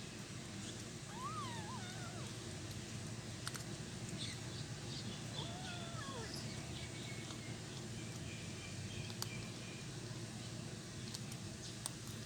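Kittens mewing while eating cat food: two short wavering calls, one about a second in and one about five seconds in, with a few small clicks scattered through, over a steady low hum.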